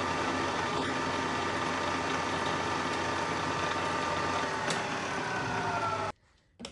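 Milling machine running: a steady mechanical hum with several whining tones. About five seconds in the tones fall in pitch as the machine slows, and the sound stops abruptly about a second later.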